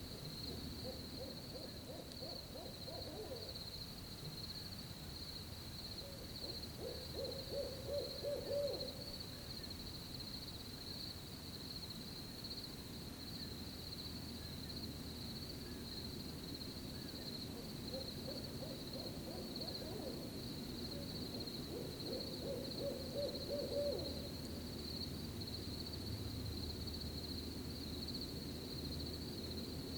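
An owl hooting in two runs of calls, each a fainter call followed a few seconds later by a louder one, over crickets chirping in a steady high trill.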